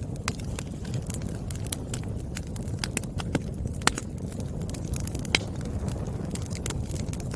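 Wood fire crackling: irregular sharp pops and snaps over a steady low rumble of burning, with a few louder pops, the strongest about four and about five and a half seconds in.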